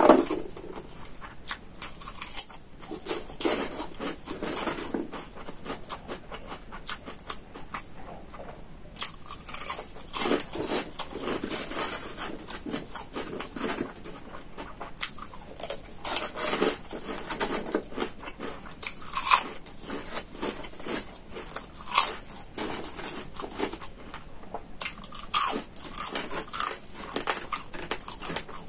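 Close-miked chewing and crunching of food, with crisp bites and wet mouth sounds coming in irregular bursts and a few sharper crunches.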